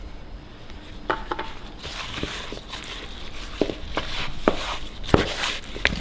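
Kitchen handling noises while raw chicken is being seasoned: scattered light knocks and clicks against the counter and containers, with steady rustling from about two seconds in.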